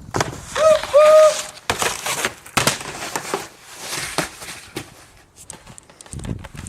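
Skis scraping and sliding over snow in irregular noisy bursts, with a person giving two short calls about half a second and a second in.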